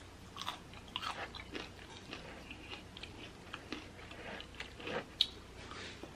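Close-up chewing of crispy fried chicken, with irregular crunches of the breaded skin, the loudest about five seconds in.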